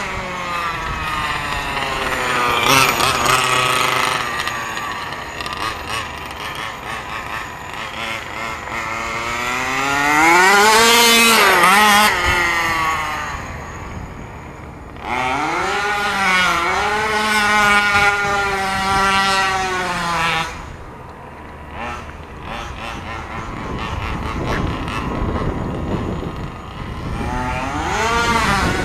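HPI Baja 5B RC buggy's small two-stroke petrol engine run at full throttle, its pitch climbing steeply as it accelerates and dropping as it lets off, in several runs: a high peak about eleven seconds in, another run from about fifteen to twenty seconds, then a lull and a fresh climb near the end.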